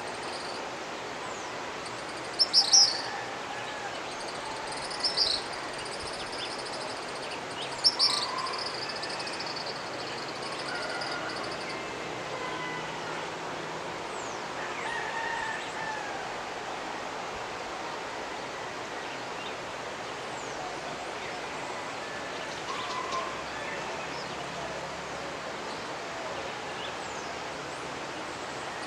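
Mountain river running steadily, with birds singing over it: loud, high calls about two and a half, five and eight seconds in, a trill that carries on to about twelve seconds, and scattered fainter chirps later.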